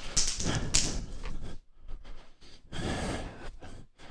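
A person's heavy breathing during hoop exercise: a few loud breaths with pauses between them.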